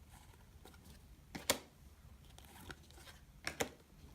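2016 Donruss Optic baseball cards being handled and flipped through one by one, giving a few short sharp flicks: one about a second and a half in, and two close together near the end.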